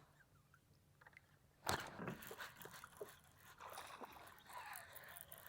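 Sudden splash about two seconds in, then a few seconds of splashing and knocking as a small bass is pulled to the kayak and landed.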